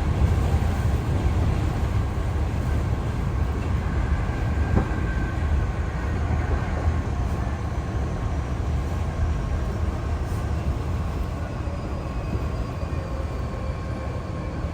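Hankyu Kyoto Line electric train running between stations, heard from inside the car: a steady rumble of wheels on rail with a faint motor whine that falls slowly in pitch.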